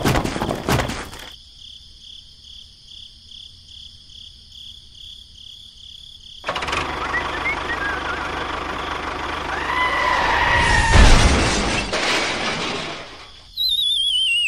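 A few sharp knocks at the start, then a small model tractor's motor running for several seconds, growing louder, with a heavy thud about eleven seconds in. Near the end a cartoon whistle sound effect wobbles steadily down in pitch.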